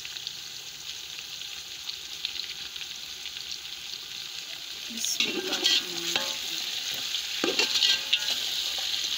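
Chicken pieces with fried onions and garlic-ginger sizzling in hot oil in a metal pot. From about five seconds in, a metal spoon stirs and scrapes the pot, and the sizzling gets louder.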